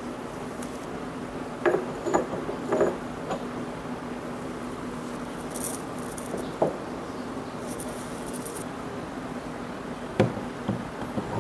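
A few light knocks and clicks, as of small hard objects being handled and set down, over a steady low hum. The loudest knock comes near the end.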